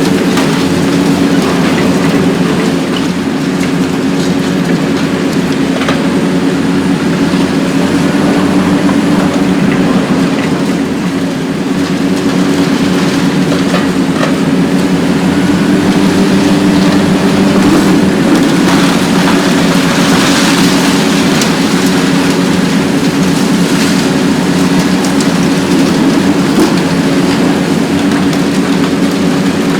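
Hitachi ZX870-3 long-front demolition excavator's diesel engine running steadily under load, a constant deep hum with a hiss and crackle of demolition work over it.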